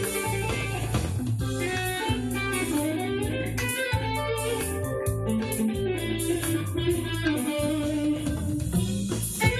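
Electric guitar played through the Zoom G3X multi-effects pedal's MS Crunch amp model, a lightly overdriven crunch tone, playing a melodic lead with sustained, bending notes. It sits over a backing part with bass and drums.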